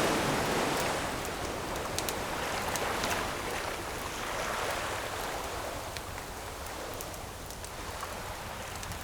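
Ocean wave washing up the shore and slowly receding, the rush easing off over the first few seconds, with scattered sharp pops and crackles of a burning wood campfire.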